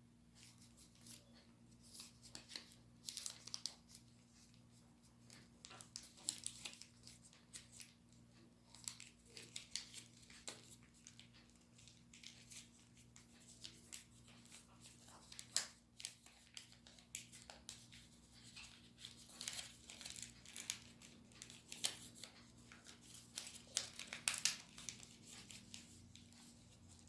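Sheet of origami paper being folded and creased by hand, with irregular crinkling and rustling crackles. A faint steady low hum runs underneath.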